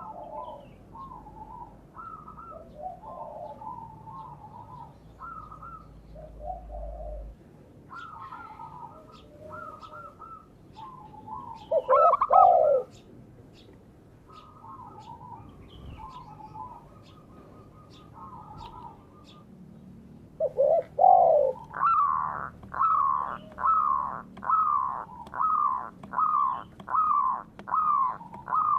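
Doves cooing in soft, overlapping phrases. From about twenty seconds in, a much louder bird call repeats about one and a half times a second, each note falling in pitch.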